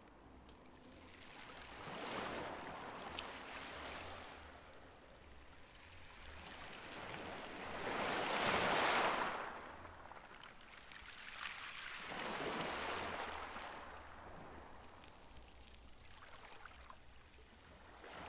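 Rushing water that swells and fades in slow surges every few seconds, the loudest about halfway through.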